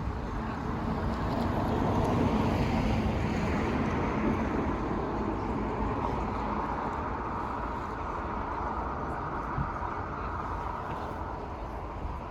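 Diesel passenger train running past and pulling away, its engine and wheel noise swelling to a peak about two seconds in, then slowly fading.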